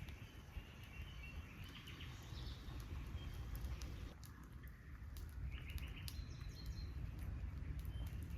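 Small birds chirping now and then over a steady low rumble, with scattered light ticks.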